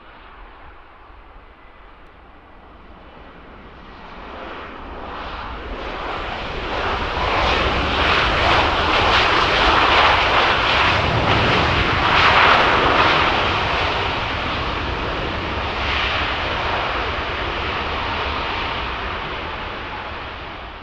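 Jet engines of an arriving Boeing 737 MAX 8, CFM LEAP-1B turbofans, as it passes close by. The noise swells to its loudest about ten seconds in, then slowly fades.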